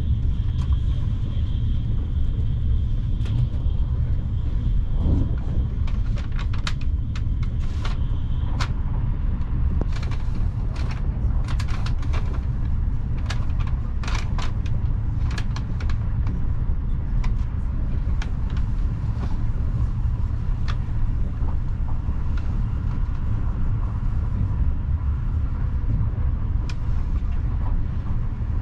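Steady low rumble of a passenger train running on the rails. A run of sharp clicks and ticks comes through for several seconds in the middle.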